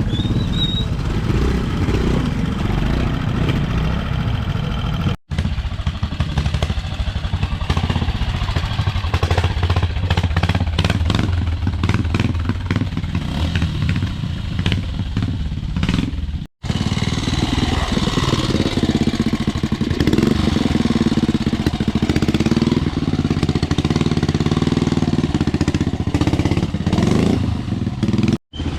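Classic trials motorcycle engines running at low revs with throttle blips as riders pick their way through a trial section, with scattered clatter. The sound breaks off abruptly three times.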